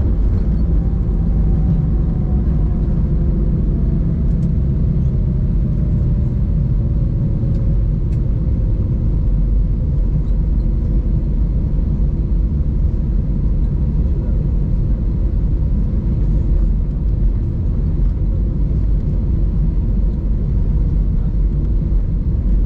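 Airbus A320-200 cabin noise on the ground after touchdown: a steady low rumble of the jet engines and wheels, with an engine whine falling slowly in pitch over the first several seconds as the engines spool down.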